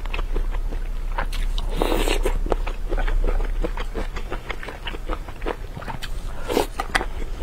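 Close-miked eating of chili-oil skewered meat: wet chewing and many small mouth clicks, with a louder wet mouth sound about two seconds in and a bite of meat pulled off a bamboo skewer about six and a half seconds in.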